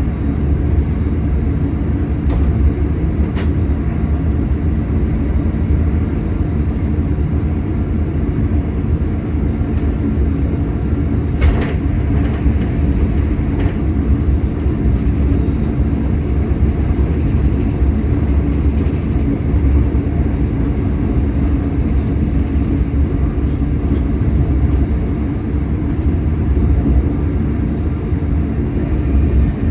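Class 385 electric multiple unit heard from inside the passenger car while running: a steady low rumble with a constant motor hum. A few sharp clicks come in the first twelve seconds or so.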